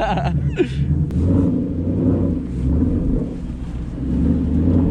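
Ford Mustang V8 running at low speed with a deep, uneven rumble that swells twice, heard from the driver's seat as the car creeps along.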